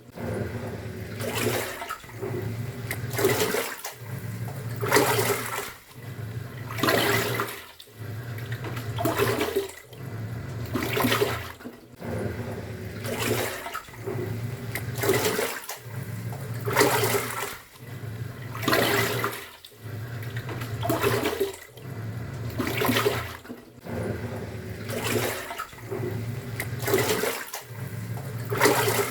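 Top-loading pulsator washing machine agitating a load: motor hum with water sloshing, reversing direction about every two seconds with a brief pause at each turn.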